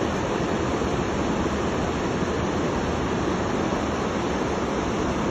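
Steady, unbroken rush of heavy water, even in level throughout with no separate splashes or drops standing out.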